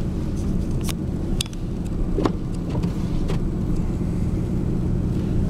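Four-wheel-drive pickup truck running slowly through deep snow in four-wheel drive, a steady low engine and drivetrain hum heard from inside the cab, with a few scattered light clicks.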